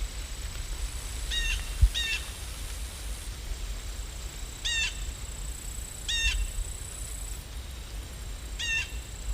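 Short bird calls, five in all, each a brief hooked note, over a steady low rumble. A dull thump comes just before two seconds in.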